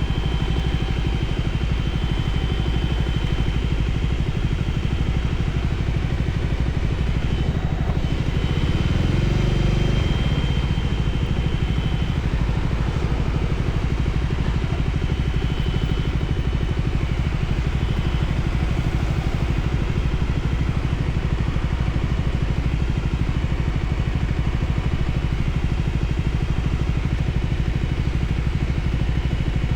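Voge 300ACX motorcycle's single-cylinder engine running steadily, briefly louder about eight to ten seconds in.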